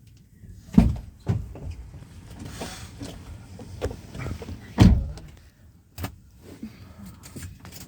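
Several heavy thumps and knocks, the loudest about a second in and near five seconds in, with smaller knocks between.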